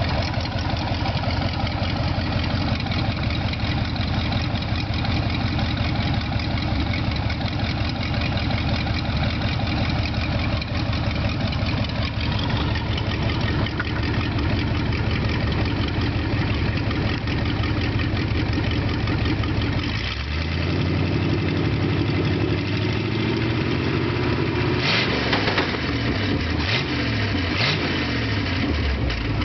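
International Harvester V345 gasoline V8 truck engine running steadily. About two-thirds of the way through it is revved, the pitch climbing and then falling back, with a few sharp pops near the end.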